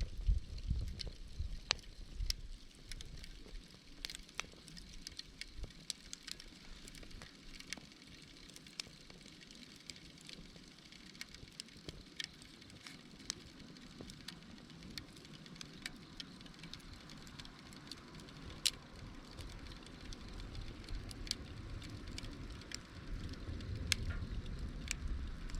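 Wood campfire crackling, with irregular sharp pops and snaps. A low rumble, like wind on the microphone, comes in the first second and again near the end.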